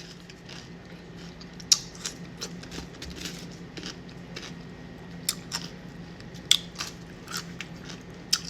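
Close-up chewing of crunchy food, with irregular sharp crunches and mouth sounds at an uneven pace.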